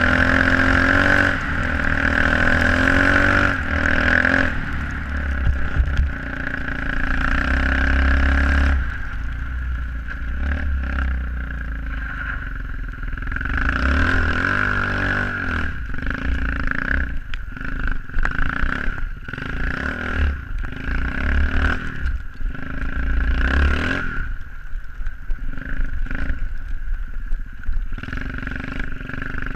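SSR 125cc pit bike's single-cylinder four-stroke engine being ridden, its pitch rising and falling with the throttle, with frequent knocks and clatter from the bike in the second half.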